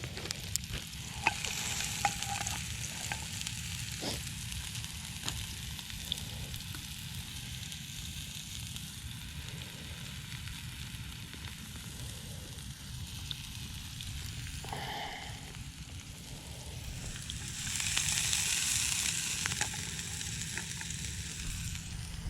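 Onions and food frying hot: a steady sizzle with scattered pops and crackles, growing louder for a couple of seconds about eighteen seconds in.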